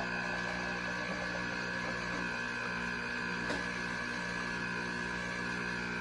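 Steady machine-like hum made of several constant tones, unchanging throughout, with one faint click about three and a half seconds in.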